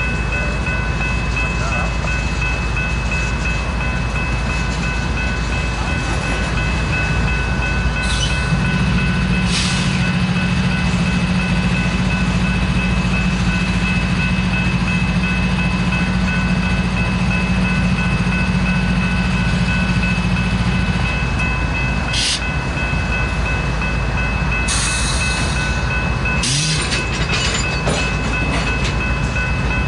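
Loaded oil-train tank cars rolling slowly past, with steady rumble and a few steady high-pitched tones from the wheels and running gear, beside a standing GE locomotive. A low steady hum comes in about eight seconds in and fades around twenty-one seconds, and a few brief sharp sounds break through, the longest about twenty-five seconds in.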